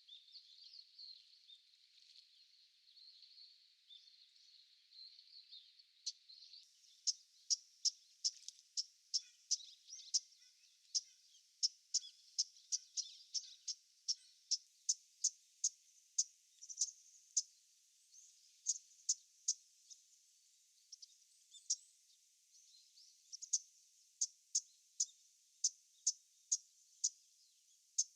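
Japanese bush warbler giving its short, harsh 'chat' winter call (sasanaki) over and over, about two calls a second, starting about six seconds in with a few short pauses. Before it starts there is only a faint high hiss.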